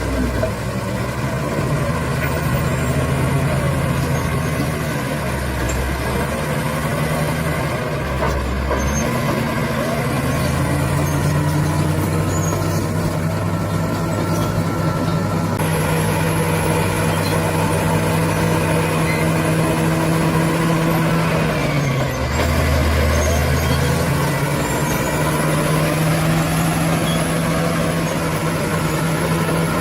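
A bulldozer's diesel engine running steadily under working load. Its pitch dips briefly about two-thirds of the way through and then picks back up, with a few short deeper swells along the way.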